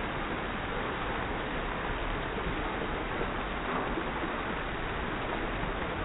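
Hailstorm: hail falling in a steady, unbroken patter.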